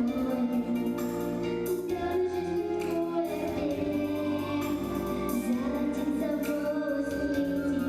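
A children's vocal group singing a song over instrumental accompaniment, with several voices holding sustained notes together.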